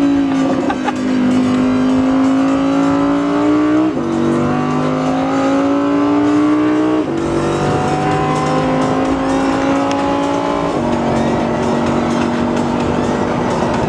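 Audi R8 engine under hard acceleration, heard from inside the cabin: its pitch climbs steadily through each gear and drops sharply at three upshifts, about 4, 7 and 11 seconds in. After the last shift it holds nearly steady.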